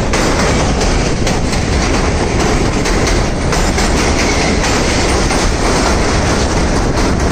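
Moving passenger train heard from beside its coach: a loud, steady rumble of steel wheels running on the rails, with a few faint clicks.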